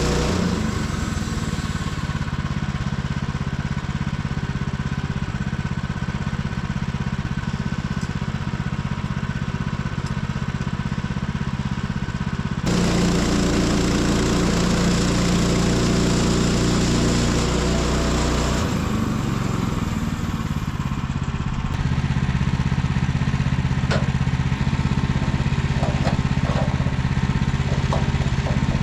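Portable sawmill's small gasoline engine running steadily, its tone shifting abruptly about halfway through and again a few seconds later.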